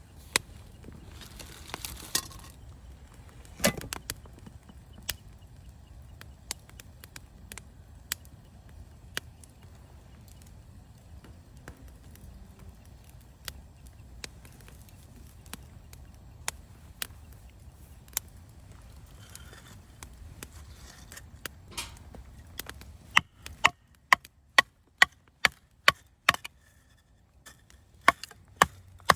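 Campfire crackling, with scattered sharp pops over a low rumble. About twenty-three seconds in, a run of loud, sharp chopping strokes starts, about two a second.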